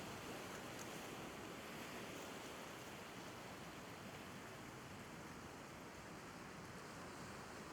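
Steady, even hiss of ocean surf washing on the shore, with no distinct wave breaks.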